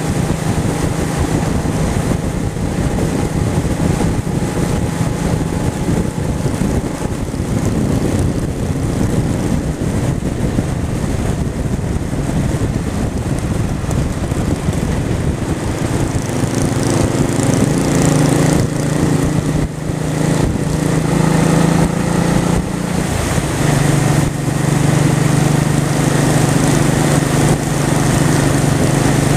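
Honda Shadow V-twin motorcycle engine running while riding, with wind noise over it. Past the middle the engine note grows stronger and steadier.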